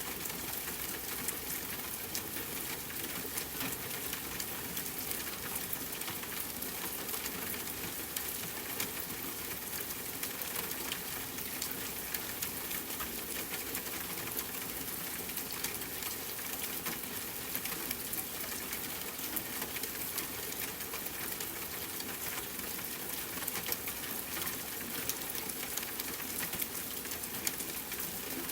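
Steady rainfall mixed with the crackle of a wood fire in a fireplace: an even hiss dotted with many short, irregular pops and ticks.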